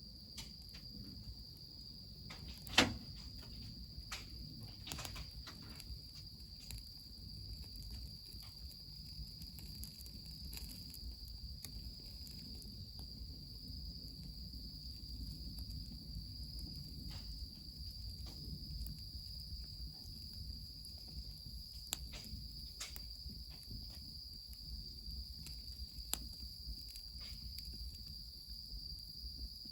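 Wood fire crackling with scattered sharp pops and ticks, one much louder pop about three seconds in, over a low steady rush of spring water running into the bath. Crickets or other insects keep up a steady high trill throughout.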